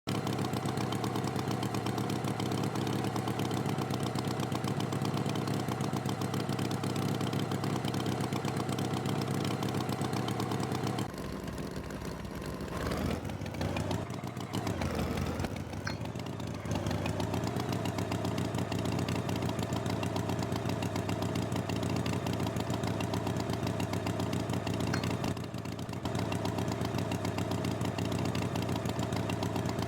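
Tractor engine running steadily. About eleven seconds in it drops in level and wavers in pitch for several seconds, then settles back into the same steady running.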